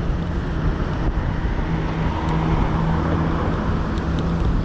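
Road traffic noise with a steady low engine hum from vehicles close by.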